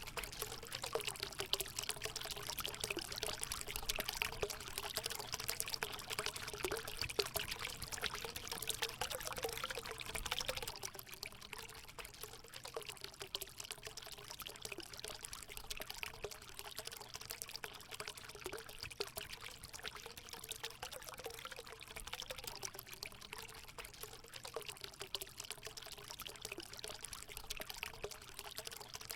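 Natural water running and pouring into a hot spring pool: a steady splashing rush with a wavering gurgle, a little quieter from about ten seconds in.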